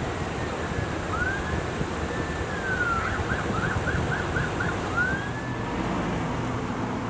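Faint emergency vehicle siren over steady road traffic noise. It gives a few rising and falling wails, with a quick run of about seven yelps in the middle.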